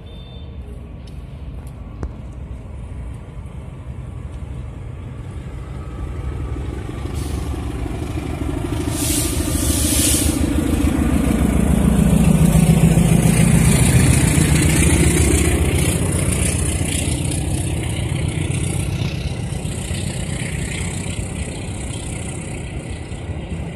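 Diesel-electric locomotive hauling a passenger train slowly past, its engine sound swelling to a peak about halfway through as it goes by, then the coaches rolling on the rails as the sound eases off.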